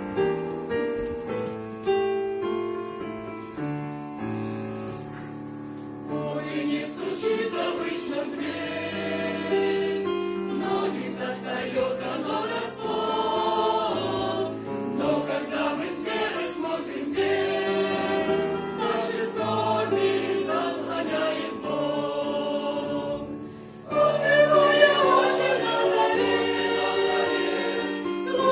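A Christian choir song with keyboard accompaniment. Keyboard notes open it, the choir starts singing about six seconds in, and the singing gets louder about four seconds before the end.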